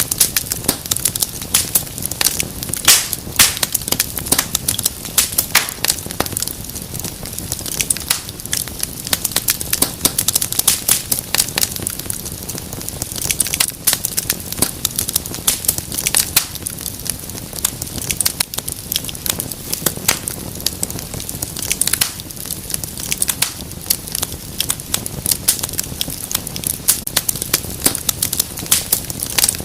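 Wood fire crackling steadily in a fireplace: dense, irregular sharp pops and snaps over a low hiss of flames.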